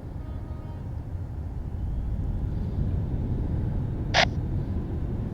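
Business jet's engines rumbling at takeoff power, growing louder over the first few seconds. About four seconds in there is a brief sharp burst of noise.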